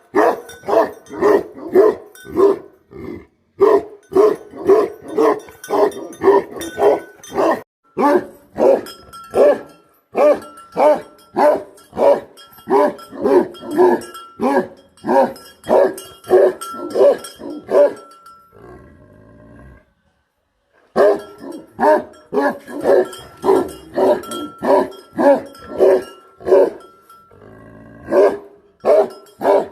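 Big Bhote Kukur guardian dog barking deep and repeatedly, about two barks a second, in long runs broken by short pauses and one longer break around two-thirds of the way through.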